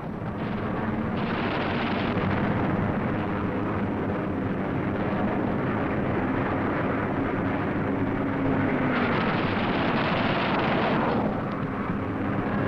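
Fighter plane engine drone with the harsh noise of the Thunderbolt's .50 calibre machine guns firing, in two long stretches: one about a second in and another near nine seconds.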